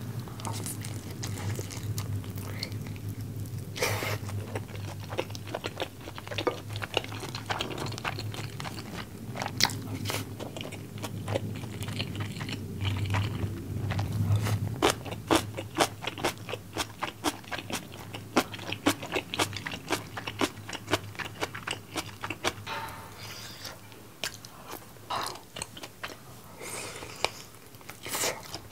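Close-miked chewing and crunching of bone-in fried chicken in a sweet-spicy sauce, with many sharp crunchy bites that come thickest in the middle.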